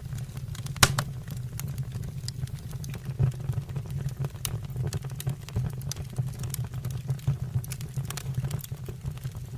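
Fire burning in a fireplace: a steady low rumble of flames with frequent sharp crackles and pops, one louder pop about a second in.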